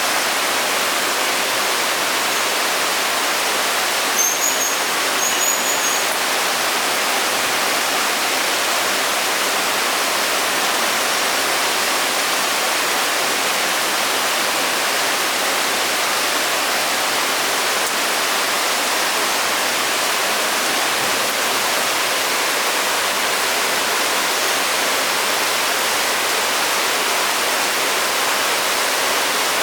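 Steady rainfall, an even hiss of falling rain without a break. Two brief high-pitched chirps sound about four to five seconds in.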